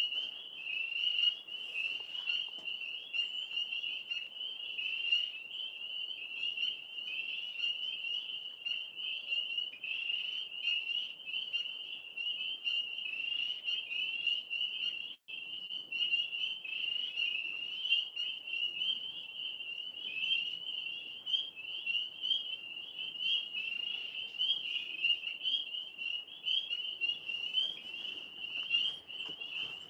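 Chorus of many frogs calling without pause, a dense, high-pitched pulsing din. The sound drops out for an instant about fifteen seconds in.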